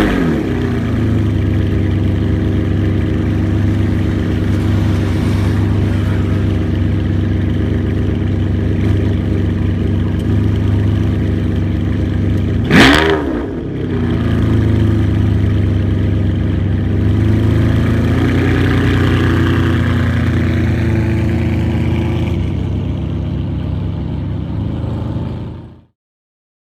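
Ferrari 599 GTO's V12 engine idling steadily just after start-up, settling from its start-up flare at the very start. About thirteen seconds in it gives one sharp rev blip that rises and falls quickly back to idle; the sound cuts off near the end.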